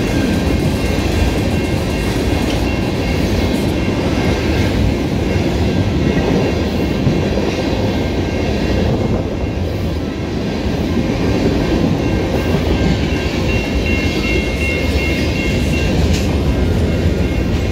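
Exo commuter train of bilevel coaches passing close by at a level crossing: a steady rumble of wheels on rail, with the crossing bell ringing high and steady over it, brighter near the end.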